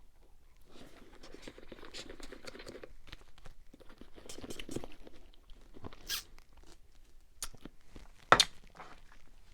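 Close-miked eating and drinking mouth sounds in two stretches of a couple of seconds each, with small clicks and one sharp click near the end.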